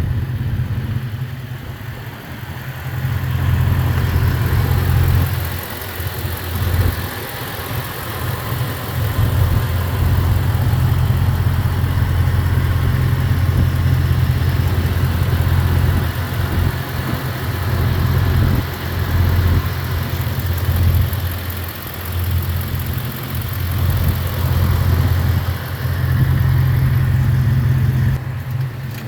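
Ford F-250 Super Duty pickup truck engine running at idle, a steady low rumble that swells and dips unevenly.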